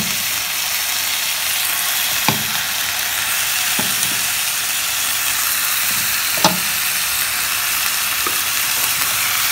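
Raw chicken pieces sizzling in hot oil in a kadai as they go into fried onion and crushed-pepper masala: a steady frying hiss with three sharp knocks along the way.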